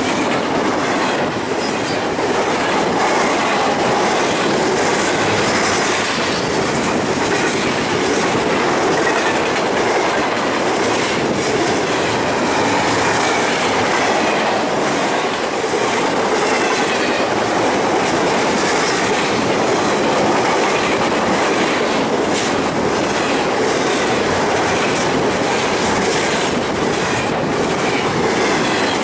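Freight train cars rolling past close by, with a steady clickety-clack of wheels over rail joints.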